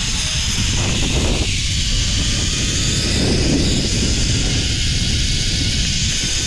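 Steady rushing noise of a zipline ride: wind buffeting the microphone, with a low rumble and a high hiss throughout.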